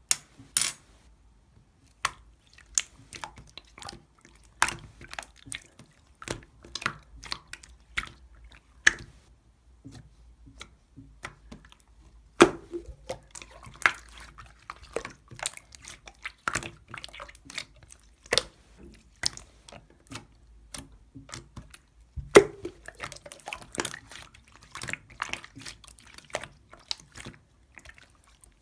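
Irregular sharp clicks and taps, several a second, with louder knocks now and then, such as small hard objects being handled or tapped.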